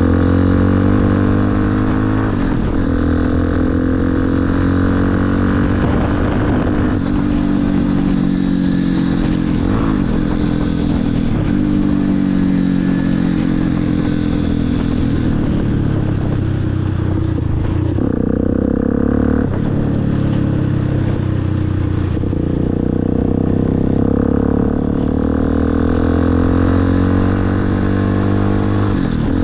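Motorcycle engine running under way, its pitch falling and rising several times as the throttle opens and closes.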